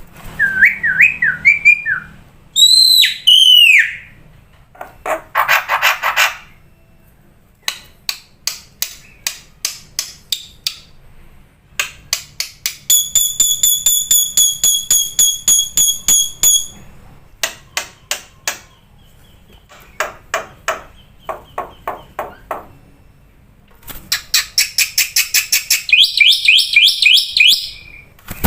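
Black-winged myna (jalak putih) singing a varied song: whistled up-and-down glides, a harsh buzzy note, runs of sharp clicking notes and fast repeated trills, broken by short pauses.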